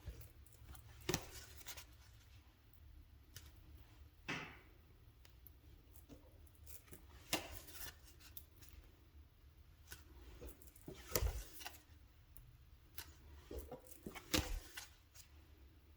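Dream Reading Cards oracle deck being flipped through by hand: cards slid off the deck and set down, with soft snaps and rubs of card stock every few seconds. The loudest of these come about eleven and fourteen seconds in.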